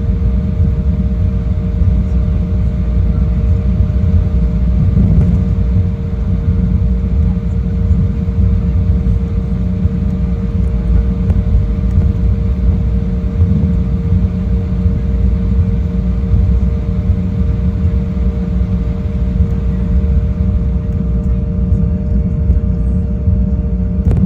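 Jet airliner cabin noise: a steady, loud low rumble from the engines and airflow, with a constant two-note hum above it.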